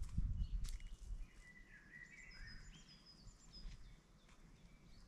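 Wild songbirds singing: a string of clear whistled notes that step up and down, with thinner high notes over them. A low rumble in the first second is louder than the birds.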